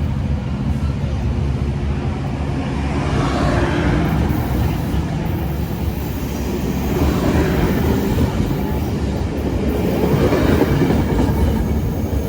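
Metrolink passenger train pulling out behind its F125 diesel locomotive, the coaches rolling past with wheels clacking over rail joints. The rolling noise swells in waves a few seconds apart.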